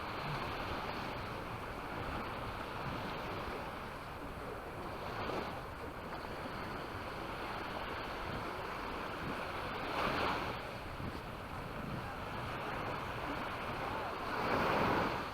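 Small waves breaking and washing up the shore, with louder washes about ten seconds in and near the end, over wind rumbling on the microphone.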